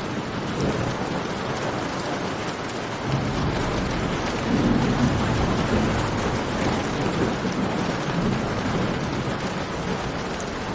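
Steady heavy rain in a cave, an even hiss across the whole range, with a low rumble that swells about three seconds in and is loudest around the middle before easing. Faint sharp ticks run through it.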